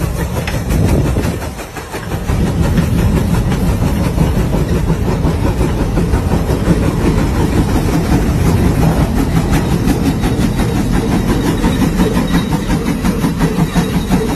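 Steam tractor engine running with an even, rapid rhythmic beat; the sound dips briefly near the start, then holds steady and loud.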